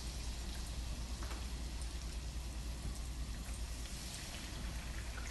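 Batter-coated vegetable slices deep-frying in hot oil, a steady sizzling crackle over a low hum.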